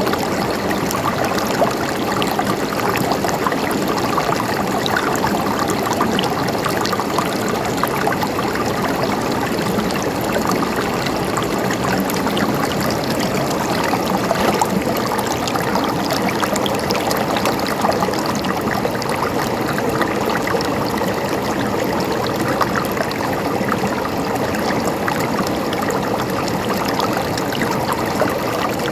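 Mountain stream flowing and gurgling steadily, with a dense patter of small splashes.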